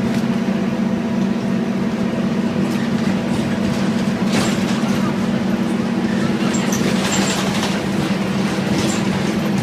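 Scania N230UD double-decker bus's five-cylinder diesel engine running at steady revs, a constant drone, with occasional short rattles.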